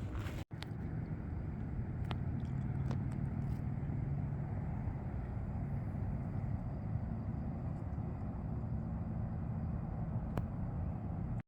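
Steady low rumble of a motor vehicle running, with a steady low hum in it. The sound cuts out briefly about half a second in and stops abruptly at the end.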